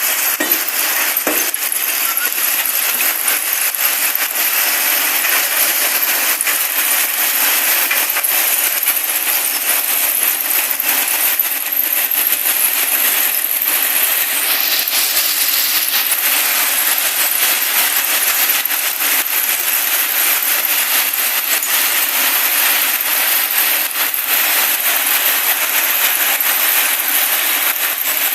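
Ballast stones pouring from the hopper cars of a working ballast train: a loud, steady, dense rattle of countless small clicks.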